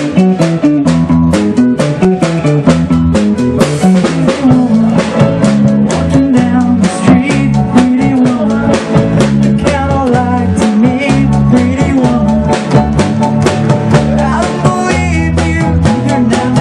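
A live band playing an upbeat number on drum kit, bass and electric guitar, with a steady drum beat throughout.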